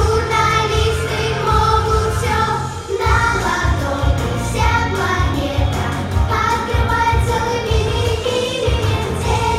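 A song: singing over a pop-style backing track with a steady beat.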